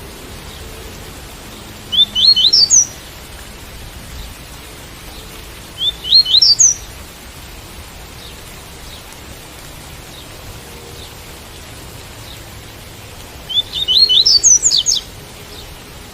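Double-collared seedeater (coleiro) singing the tui-tui song: three short phrases of quick rising notes, about 2, 6 and 14 seconds in, the last the longest. Steady rain patters underneath.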